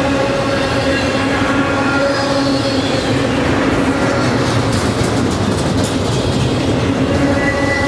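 Norfolk Southern freight train rolling past, its cars' steel wheels giving a steady loud rumble and clatter on the rails, with thin steady ringing tones from the wheels mixed in.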